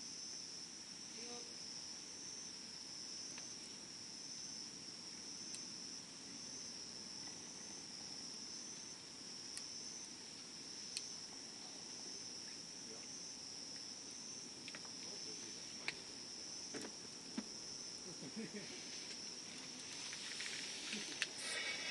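Insects chirping in a steady, high, slightly pulsing trill, over a wood campfire crackling softly with a few sharp pops, more of them near the end.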